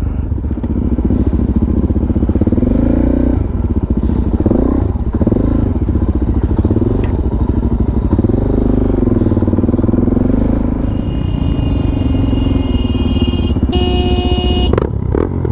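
Dirt bike engine running and being revved, its pitch rising and falling over and over. A higher-pitched whine joins in near the end.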